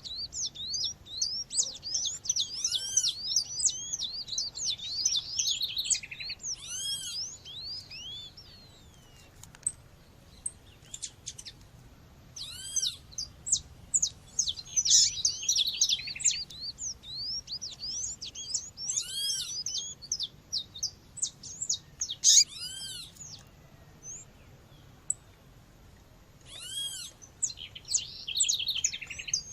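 Female seedeater (coleiro/papa-capim, Sporophila) calling: bouts of rapid, high chirps and repeated arching notes, with quieter gaps at about 8 to 12 seconds in and again at about 23 to 26 seconds in.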